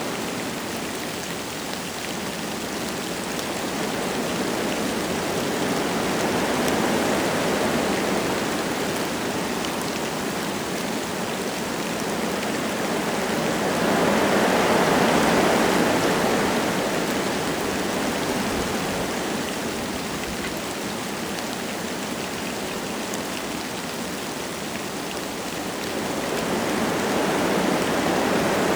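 Wind gusting through forest trees with light rain falling. The rushing rises and falls in waves, loudest in a strong gust about halfway through and building again near the end.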